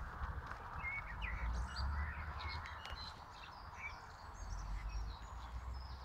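Small bird chirping in many short, high chirps over a steady outdoor background rumble.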